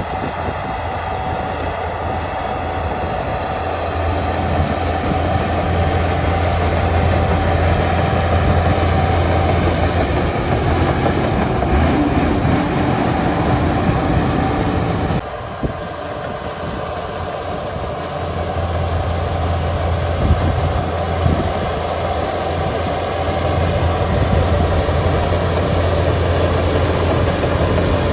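Heavy diesel earthmoving machinery working: a steady, loud engine drone under load. The sound drops abruptly about halfway through, then builds again.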